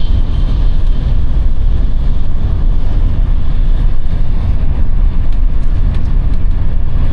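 Al Boraq high-speed train running, a loud steady rumble and rushing noise with no let-up.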